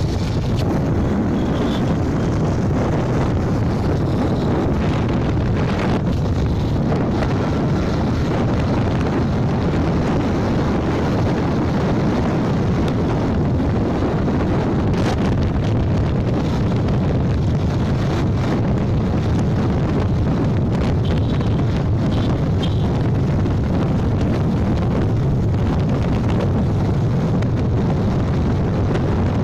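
Steady wind rushing over the microphone of a moving motorbike, with road and engine noise underneath.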